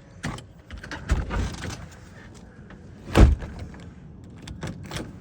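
A few light knocks and a rustle, then one heavy thump about three seconds in.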